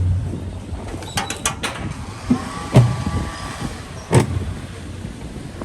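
Street sounds with a vehicle's low rumble fading away at the start, then a few sharp clicks and knocks.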